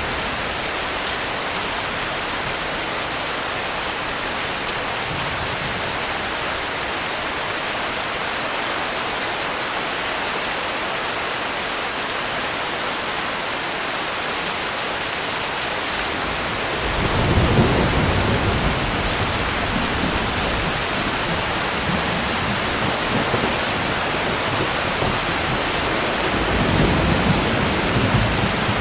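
Steady heavy rain hissing, joined a little past halfway by a long rolling rumble of thunder that swells again near the end.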